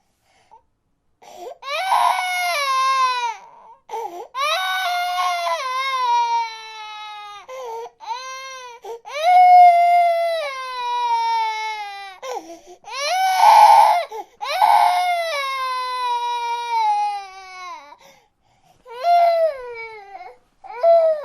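Baby crying: a run of long wails, each falling in pitch, with short catches of breath between them.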